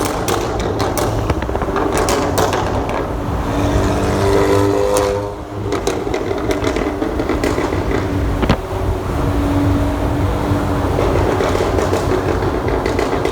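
Audi S3's turbocharged four-cylinder engine running through a loud exhaust, with a string of sharp exhaust pops in the first few seconds and another single pop about two thirds of the way through. The sound echoes inside a tunnel.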